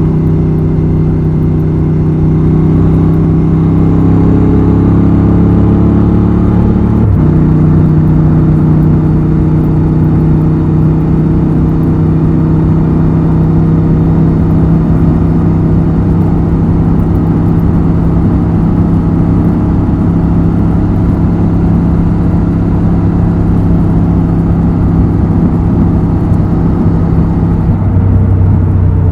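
Honda XL750 Transalp's 755 cc parallel-twin engine and exhaust under way, its note rising gradually, then dropping sharply once about seven seconds in, then running at a steady pitch while cruising.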